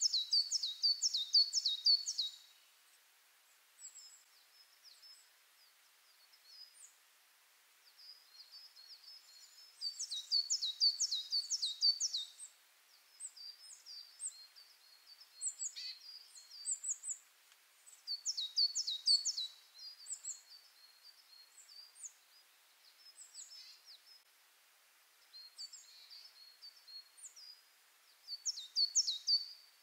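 A songbird singing: bursts of rapid, high, repeated down-slurred notes lasting a couple of seconds, coming about every nine seconds, with softer scattered chirps in between.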